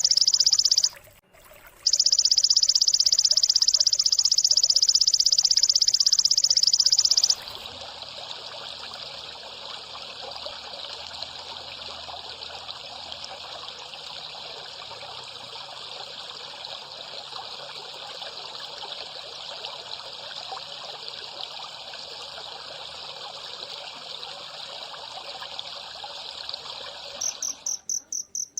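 A bird-training compilation of insect recordings: a loud, steady high-pitched insect trill with a short break about a second in, cutting abruptly to a softer, even trickling hiss. Near the end a cricket starts chirping in quick, regular pulses, several a second.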